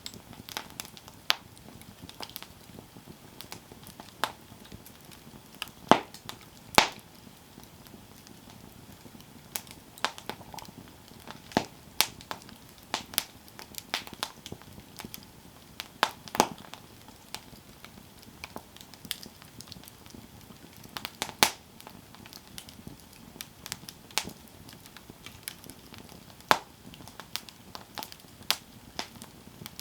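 Wood campfire burning, with irregular sharp crackles and pops over a faint steady hiss of the flames.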